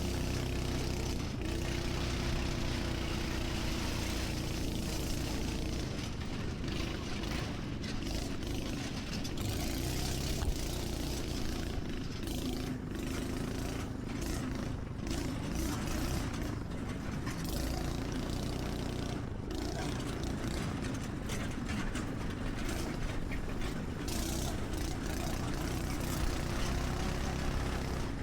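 A small vehicle engine running steadily, with rushing noise over it.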